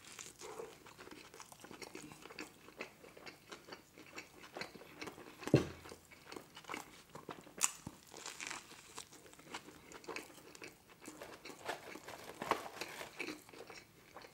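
Biting into and chewing a McDonald's Grand Mac burger: a steady run of small mouth clicks and chewing sounds, with a few louder bites, the loudest about five and a half seconds in.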